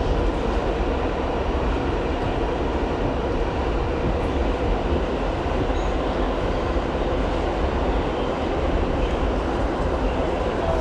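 R68 subway train running steadily: a continuous rail rumble heaviest in the low end, with a faint steady hum above it.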